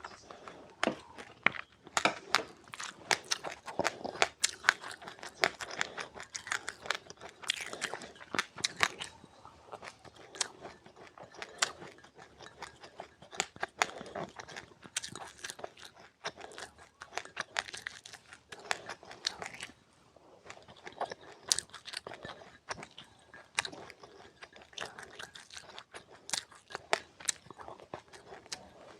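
Close-up chewing of crunchy seeds with passionfruit, a rapid, irregular run of sharp crunches and cracks with short pauses between bites.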